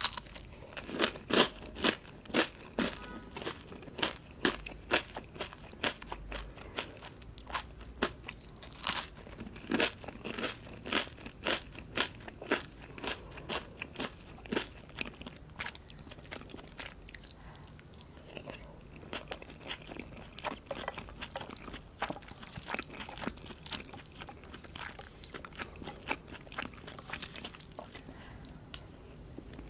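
Close-miked chewing of a crunchy breaded fried shrimp: a quick run of crisp crunches that grows softer and sparser in the second half.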